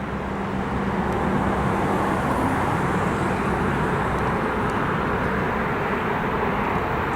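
Approaching ChS7 electric locomotive hauling an express passenger train, a steady running noise that grows louder over the first second and then holds.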